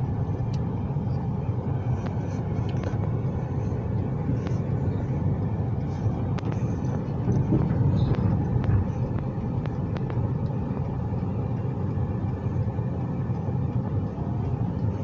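Steady low rumble of a moving road vehicle, with a few faint ticks over it.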